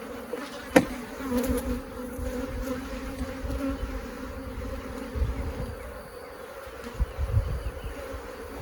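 Honeybees from a crowded open hive buzzing in a steady hum around the beekeeper. A single sharp knock sounds just under a second in.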